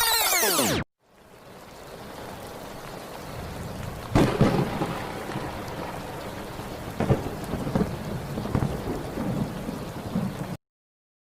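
Thunderstorm sound effect: steady rain fades in, a sharp crack of thunder comes about four seconds in, and lighter rumbles follow before it cuts off near the end. It opens with the last moment of a sweeping, swooping effect that stops abruptly.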